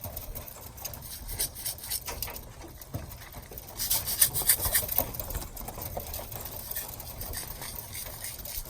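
Pigeons scuffling and flapping at a loft trap: rustling and scraping with a louder flurry of wingbeats about four seconds in.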